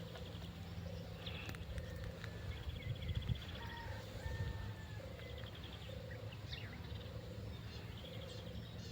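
Outdoor birdsong: a short low call repeating about once a second, with scattered higher whistled notes and brief rapid trills over a low steady rumble.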